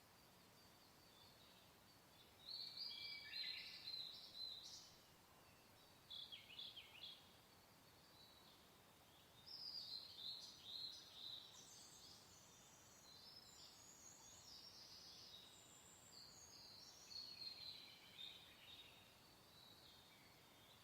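Faint songbird singing: several short runs of quick high chirps and trills, separated by pauses, over a soft steady background hiss.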